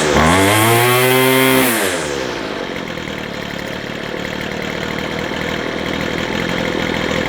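McCulloch 250C XL strimmer's small two-stroke engine revved high for about two seconds, then the throttle is let off and it drops to a steady idle. It is running on freshly readjusted carburettor jets.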